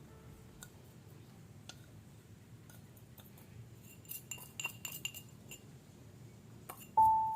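Faint scattered clicks, then a quick run of light clinks of small hard objects about four to five and a half seconds in. A held musical note begins near the end.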